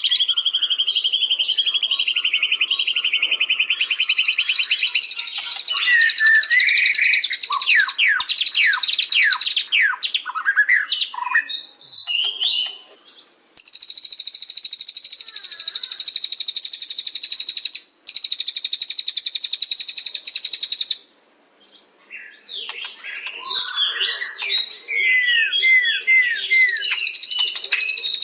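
White-rumped shama (murai batu) singing. Long, very fast buzzy trills alternate with bursts of clear whistled notes that slide in pitch, with a couple of short pauses between phrases.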